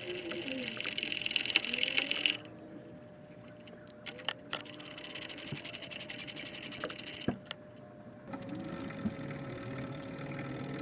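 Cordless power tool running in three bursts of rapid, even clicking with a motor whir, backing out the 14 mm mount bolts on a Toyota Tacoma's rear axle.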